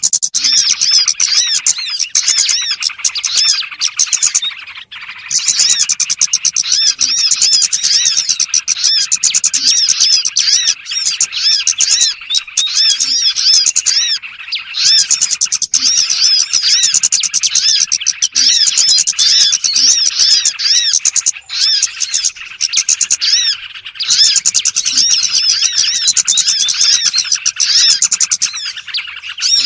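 Dense, continuous chatter of many small birds: high-pitched chirps and trills overlapping without pause, briefly thinning out about five seconds in and again past the twenty-second mark. This is a small-bird lure (pikat) call recording used to attract wild birds.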